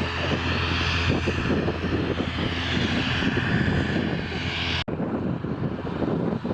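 Airliner engines running with a steady rush and a low hum. The sound cuts off abruptly about five seconds in, and a quieter, duller rumble follows.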